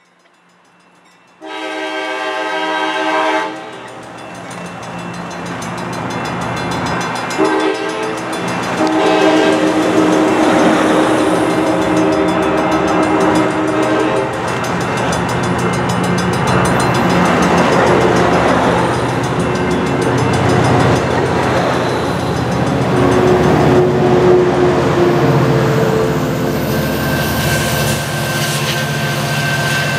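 A passenger train's horn blows three times over the rumble and wheel clatter of bilevel cars rolling past close by: a blast about a second and a half in, then a short one and a long one between about 7 and 14 seconds in. Under it runs the steady drone of the EMD F59PHI diesel locomotive pushing at the rear of the train.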